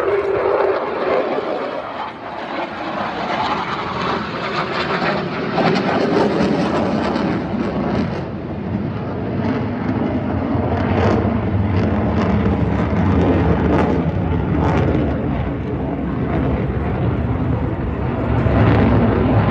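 Military display aircraft flying an aerobatic manoeuvre overhead, its engine noise loud and continuous, swelling and easing as it turns through the square loop.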